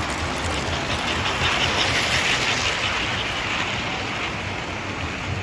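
Model trains running on a layout: steady rolling noise over a low hum, with a hiss that swells about halfway through and then eases.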